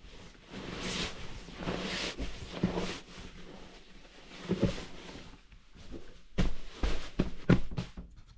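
Rustling and handling noises, then a series of sharp knocks and thumps, about five of them in the second half.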